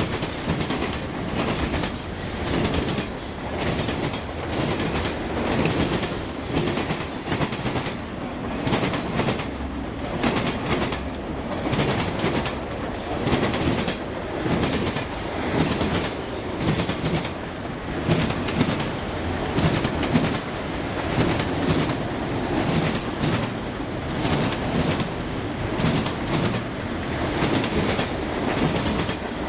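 Railroad cars rolling past on the Norfolk Southern Chicago Line, their wheels clicking over rail joints in a steady repeating rhythm, with a faint high wheel squeal now and then.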